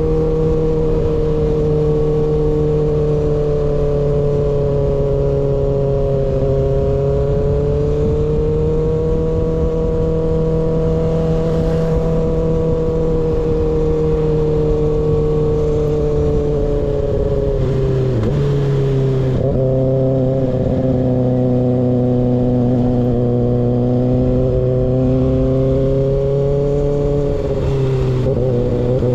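Kawasaki ZX6R inline-four engine through an unbaffled M4 GP19 slip-on exhaust, running at a fairly steady throttle with a slowly wavering pitch. A little past halfway the pitch drops and settles lower, and near the end it dips briefly again.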